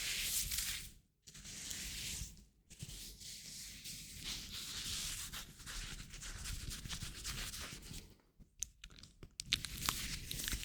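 Hands rubbing and scratching in long, hissy strokes broken by short pauses, with a few sharp crackles near the end.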